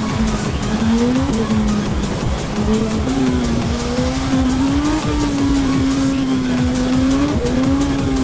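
Honda CB1000R's inline-four engine running at road speed, its pitch rising and falling as the throttle opens and closes, over steady wind rumble on the helmet microphone.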